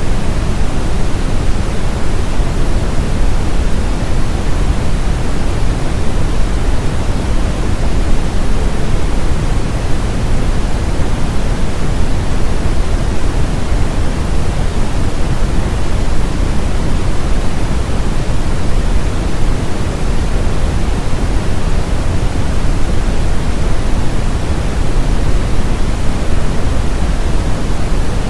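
Brown noise: a steady, loud, even hiss weighted toward the low end, deep and rumbling, with no changes or events.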